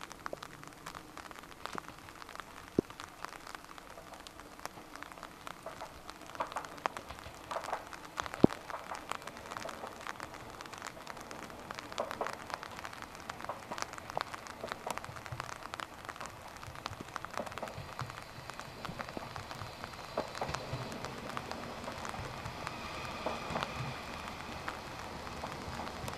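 Rain falling, with many scattered drops ticking close by. A faint low rumble grows in the second half.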